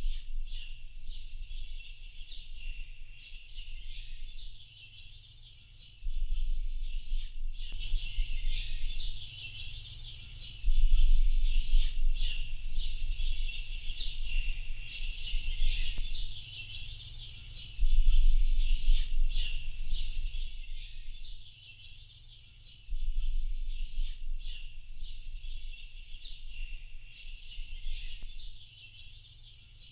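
Many small birds chirping and twittering together in a dense, continuous chorus of short high calls. Under it a low rumble comes on suddenly every several seconds and fades away again.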